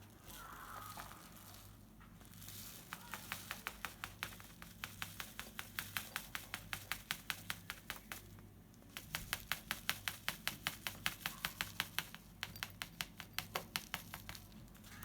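Cockatiel nibbling at oregano leaves: quick, sharp beak clicks about four a second, in two long runs with a short break about halfway through.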